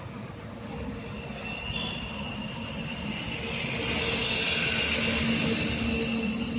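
A train running on the rails: a steady rumble with a thin, high wheel squeal, growing louder about four seconds in.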